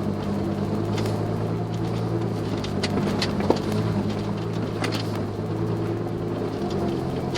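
Suzuki Jimny JB23W's 660 cc turbocharged three-cylinder engine running steadily while the car drives a forest road, with scattered light clicks and knocks. The engine note shifts slightly late on.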